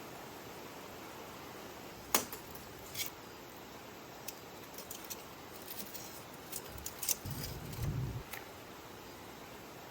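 Scattered light clicks and clinks of small objects being handled, the sharpest about two seconds in, over a steady hiss, with a brief low rumble a little past seven seconds.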